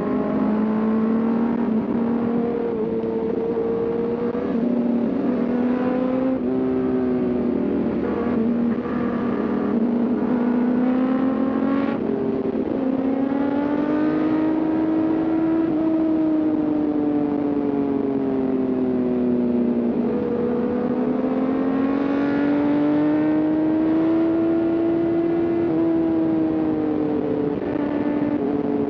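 A sport motorcycle's engine running at high revs under way. Its pitch climbs and falls slowly with the throttle, with a few quick steps as it changes gear.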